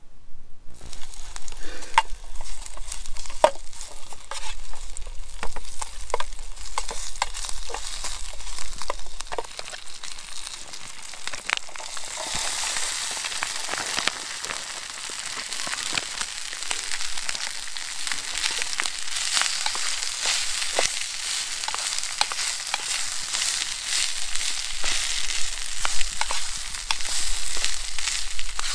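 Packet golden vegetable rice and chorizo frying in hot oil in a steel mess tin over a small wood stove: a sizzle that grows much stronger about twelve seconds in as the rice goes into the tin. Clicks and scrapes of a metal spork stirring run through it.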